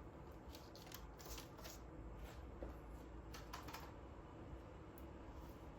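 Faint, scattered light clicks and rustles over a quiet background.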